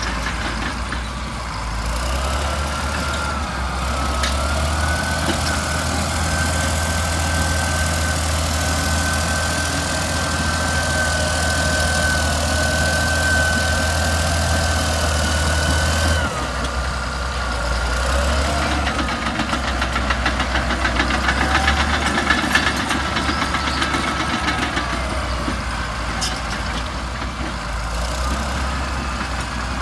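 Old Caterpillar D8 bulldozer's diesel engine running, with a whine over it; the engine note and the whine rise about two seconds in, hold steady, then drop back at about sixteen seconds. A fast, even clatter comes in for a few seconds later on.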